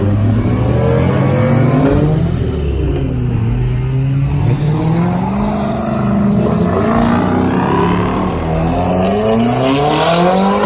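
Car engine revving hard, its pitch dropping away about three seconds in and then climbing steadily through the later seconds.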